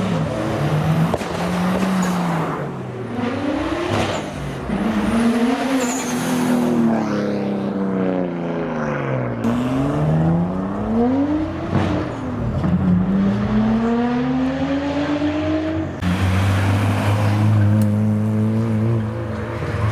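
Modified car engine revving hard again and again, its pitch climbing and dropping every second or two. In the last few seconds it holds a steady low running note.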